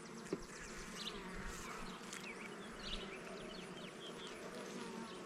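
Honey bees buzzing steadily around an open hive during a frame inspection. The colony is agitated, more active than usual, with a few faint knocks of frames.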